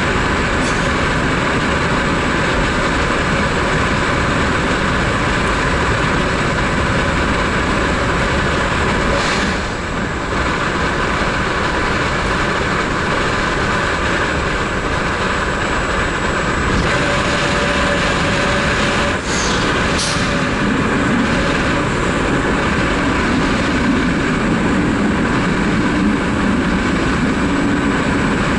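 Steady running noise of a Vivalto double-deck regional train in motion: a continuous rumble and hiss with a few brief clicks along the way, and a low hum that grows louder in the second half.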